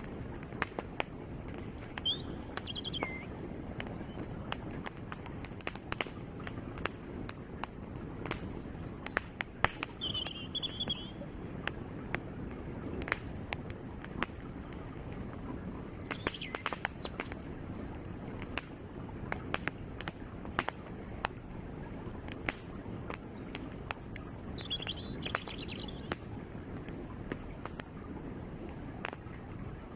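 Wood campfire crackling with frequent sharp pops, over the steady rush of a flowing creek. A bird chirps a few times: a brief falling call early on the second, then short calls again later.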